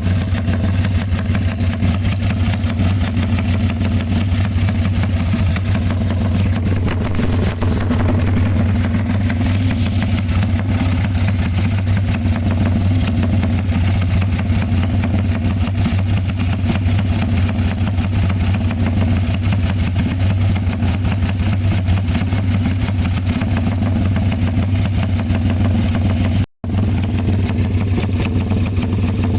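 Motorcycle engine idling steadily through a BMS X-One aftermarket exhaust fitted with a quarter baffle insert. The note stays even, with one split-second break near the end.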